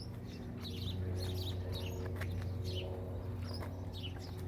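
Birds chirping repeatedly, short high falling chirps several times a second, over a steady low hum.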